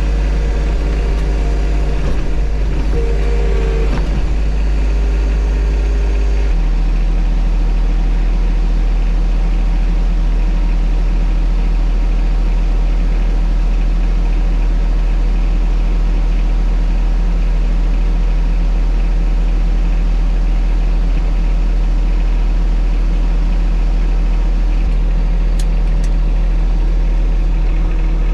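John Deere 1025R compact tractor's three-cylinder diesel engine running steadily while working snow with its loader. The engine note shifts about six seconds in, and a brief higher tone comes in around three to four seconds.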